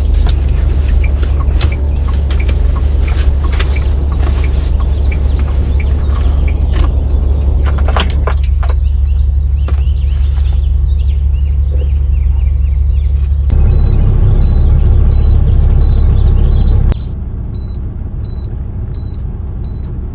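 Heavy rain drumming on a semi-truck's cab: irregular sharp drop impacts over a steady low rumble. Past the middle, a run of short, evenly spaced high beeps starts, about one and a half a second, and the low rumble drops away shortly after.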